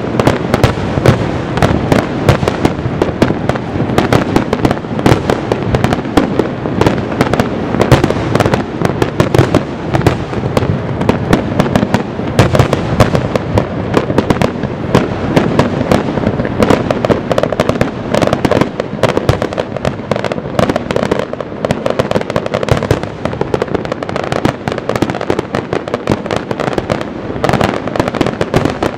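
Fireworks display finale: a dense, unbroken barrage of shell bursts and crackling, many reports a second with no pauses between them.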